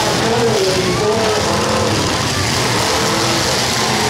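Several demolition derby cars' engines running and revving at once, a loud, continuous din whose pitch keeps rising and falling.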